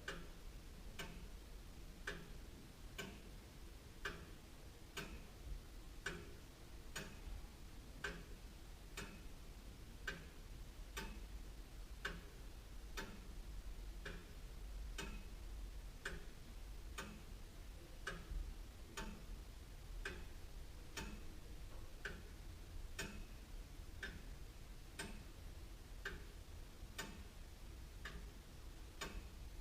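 Antique William Holliwell of Liverpool clock ticking steadily, its escapement giving an even, regular tick-tock.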